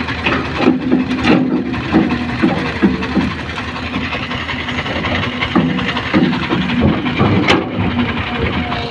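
Excavator engine running at work, with repeated knocks and clanks over its steady hum and one sharp crack about seven and a half seconds in.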